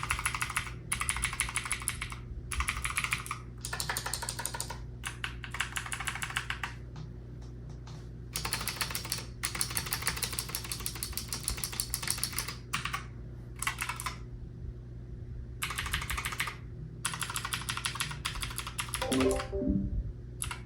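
Hawksbill Scorpion V1 mechanical keyboard with clicky switches being typed on in bursts of rapid keystrokes, with short pauses between them. Near the end, a brief run of electronic Discord notification tones sounds.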